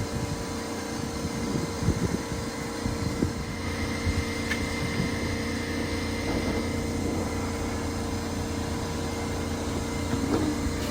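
A steady mechanical hum runs throughout, with a few light clicks and knocks, such as parts or tools being handled, about two, three, four and ten seconds in.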